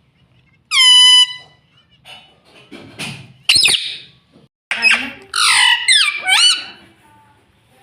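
Indian ringneck parrot squawking and calling: one long held call, two short sharp calls, then a run of loud calls with quick falling pitch glides.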